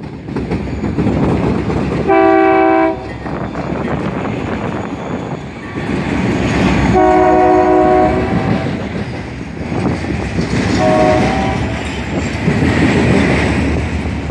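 Florida East Coast Railway diesel freight locomotive passing close, its engine rumbling over the wheel and rail noise of the train behind it. The multi-note horn sounds three blasts, the middle one longest, the opening of the long-long-short-long grade-crossing signal.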